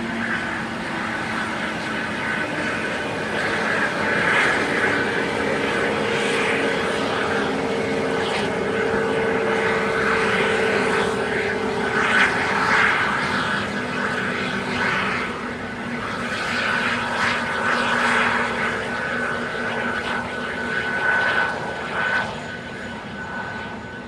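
Airbus A320neo's CFM LEAP-1A jet engines running at low power, a steady rushing noise with a high whine that swells and eases.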